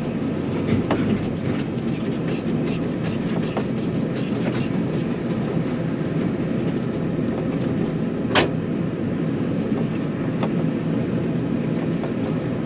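Telehandler's diesel engine running steadily, with light clicks and rattles over it and one sharp knock about eight seconds in.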